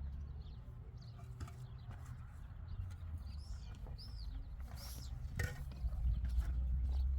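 A few short bird chirps in the middle over a steady low rumble that grows louder near the end, with scattered faint clicks.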